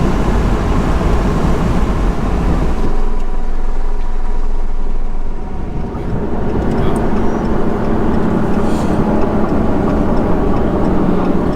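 Motor vehicle running, with a steady engine hum and road noise; the low rumble eases briefly in the middle.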